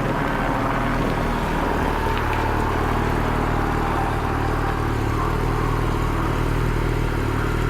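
Motorcycle engine running steadily at low speed, a constant low hum that settles to an even pitch about two seconds in.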